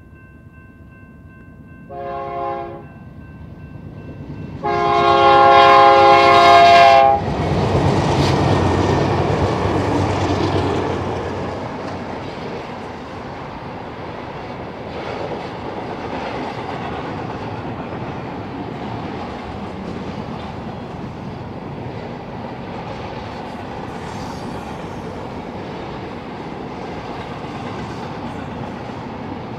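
A BNSF GE C44-9W diesel locomotive sounds its multi-note air horn: faintly at first, then a short blast about two seconds in and a long, loud blast a few seconds later. The locomotive's engine then rumbles past. Double-stack intermodal container cars follow, rolling by with a steady wheel clatter over the rail joints.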